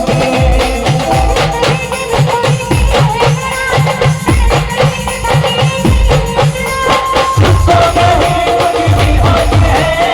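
Live band music: a steady, driving drum beat with rattling tambourine-like percussion and held melody lines over it.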